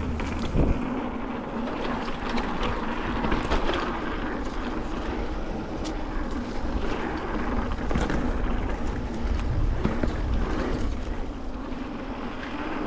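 Mountain bike riding down a dirt trail: steady rushing noise of wind and tyres with frequent small rattles and knocks from the bike over bumps.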